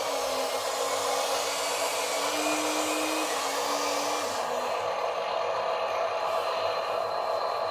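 Small electric motor and gearbox of an RC construction truck whirring steadily, with a whine that shifts down and up in pitch a few times as the motor speed changes, fading out about halfway through.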